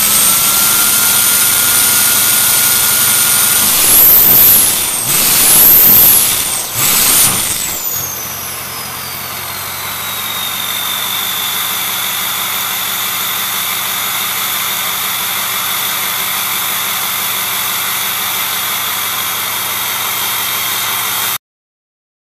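2006 Ford F250's 6.0 Powerstroke V8 turbodiesel, straight-piped through a 4-inch turbo-back exhaust with no catalytic converter or muffler, idling with a high turbo whistle. It is revved briefly about four, six and seven seconds in, the whistle climbing with each rev, then it settles back to idle as the whistle falls slowly to a lower steady whine. The sound cuts off about a second before the end.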